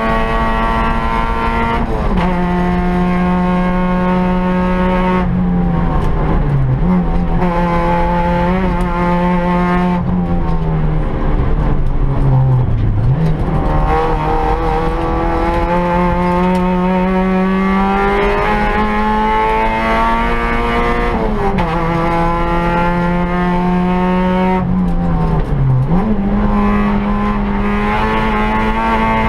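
Peugeot 106 rally car's engine heard from inside the cabin, pulling hard through the gears: the pitch climbs, then drops at each gear change, several times. Around the middle the revs fall lower before building up again.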